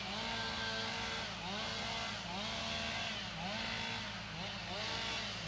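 An engine revving up and down again and again, its pitch rising, holding briefly and dropping about once a second.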